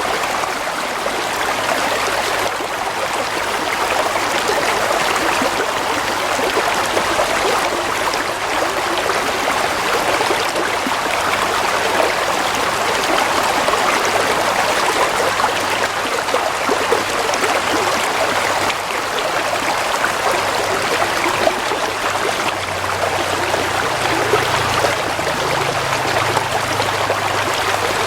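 Stream water flowing and trickling over stones, a steady babble.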